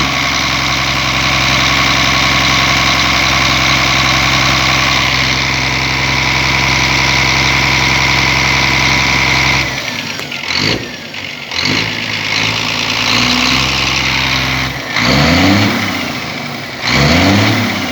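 Scania Euro 5 truck diesel engine held at steady raised revs for about ten seconds, then dropping back and being revved up and down a few times.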